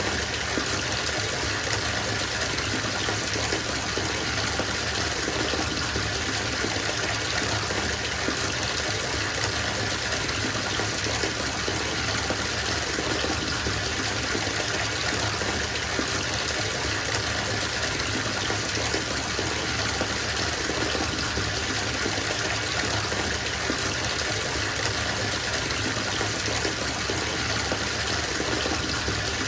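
Bathtub tap running steadily, water gushing into a filling tub.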